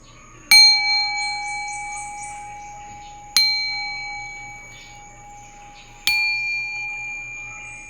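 Metal singing bowl struck three times, a few seconds apart. Each strike rings on in a few clear tones that fade slowly and overlap the next, with a brief high tinkling about a second in.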